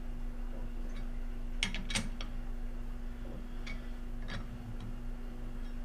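South Bend 14½ lathe running with a steady electric hum, while its carriage and feed controls are worked by hand, giving a few sharp metallic clicks: a quick cluster about two seconds in and single clicks near four seconds.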